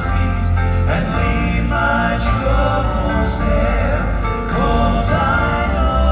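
Live gospel music: a male vocal quartet singing with full instrumental accompaniment and a steady bass.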